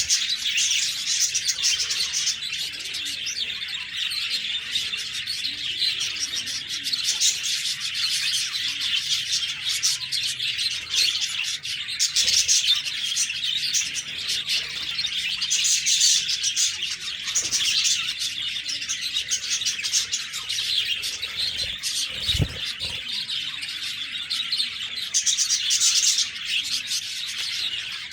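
A flock of budgerigars chirping and warbling continuously, many overlapping calls at once, with a brief low thump about three quarters of the way through.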